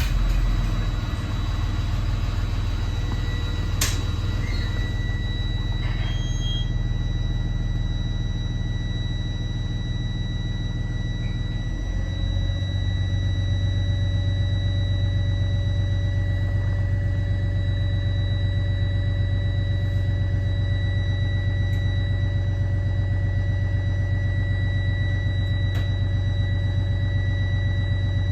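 Cummins ISB 6.7 inline-six turbo diesel of a 2014 Thomas Saf-T-Liner C2 school bus idling just after starting, with a steady high whine over the drone. About twelve seconds in, the engine note steps up and gets louder, then holds steady.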